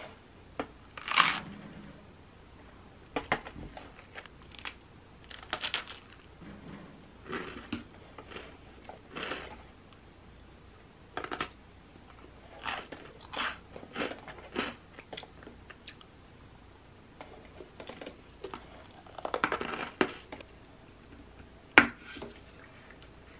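Close-up chewing and crunching of toast spread with green tea cream and topped with blueberries and almonds, in irregular bites. Near the end, a single sharp click as a straw is pushed into a drink carton.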